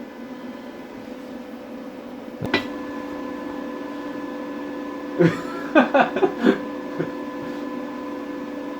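A steady hum with several fixed tones, broken by one sharp knock about two and a half seconds in and a quick run of five or six sharp knocks a little past halfway.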